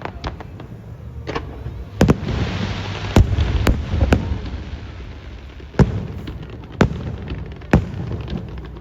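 Aerial fireworks bursting: about seven sharp bangs at uneven intervals with smaller pops between, and a crackling hiss following the bang about two seconds in.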